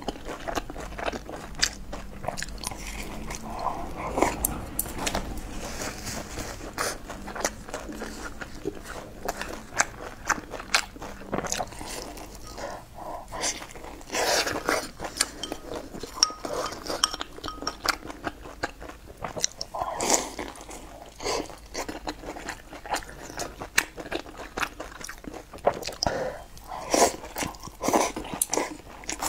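Close-miked eating: biting and chewing of soft dumplings, with many small sharp mouth clicks throughout and a few louder bites.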